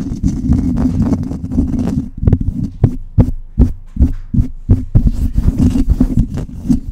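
A microphone being scratched fast and hard, giving a loud, deep rasping rumble made of rapid strokes, about three a second in the second half.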